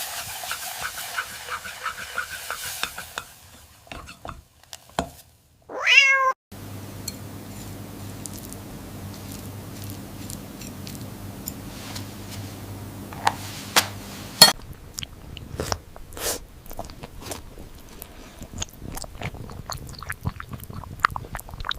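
A cat meows once about six seconds in, a short call falling in pitch. Around it are a steady low hum and scattered sharp clicks and knocks.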